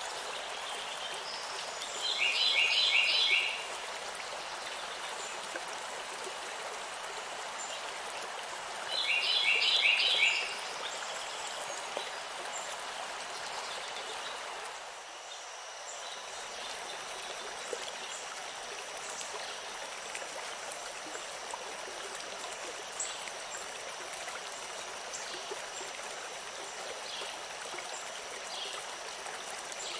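Steady rush of flowing stream water. A bird sings two short bursts of rapid repeated notes, a couple of seconds in and again near ten seconds. Around halfway the water sound shifts slightly and a faint high steady tone joins it.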